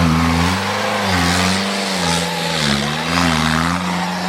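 Off-road vehicle engine revving under load, its pitch rising and falling again and again as the throttle is worked.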